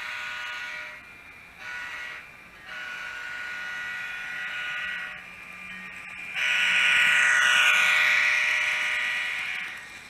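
Horn of a model locomotive's sound decoder, played through its tiny speaker: four blasts, a long one, a short one and two longer ones, the last the longest and loudest. The sound comes from a Digitrax SDN144K0A decoder in a Kato N scale P42, running a stock F40PH sound scheme.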